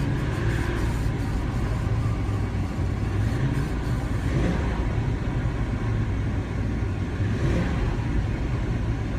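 Ford E250 van's engine idling with a steady low rumble, still cold after a very hard cold start.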